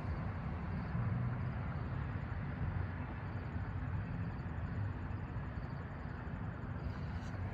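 Steady low rumble of outdoor road traffic, with no single vehicle standing out.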